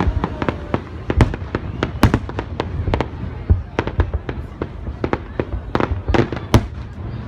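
New Year fireworks display exploding in a rapid, irregular string of bangs and cracks, several a second, over a continuous low rumble.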